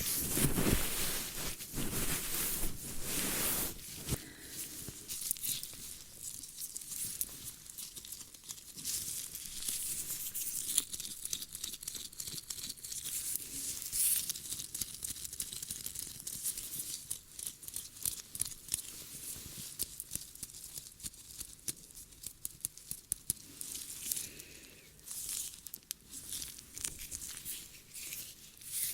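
ASMR ear-cleaning sounds: a tool scratching and rubbing in an ear, making close crackling and rustling. Rougher and louder for the first few seconds, then a steady run of fine, quick crackles.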